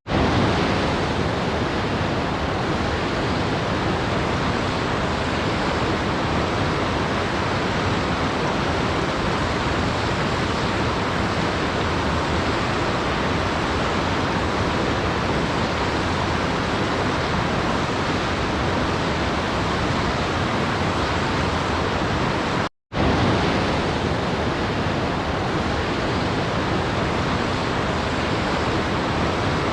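Waterfall rushing in a steady, even roar of falling water. It cuts out to silence for a split second about 23 seconds in, then resumes unchanged.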